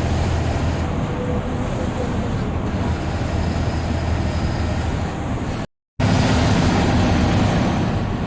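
Bus diesel engine running steadily under way, with tyre and road noise heard from the driver's cabin. The sound cuts out completely for about a third of a second about two-thirds through, then returns.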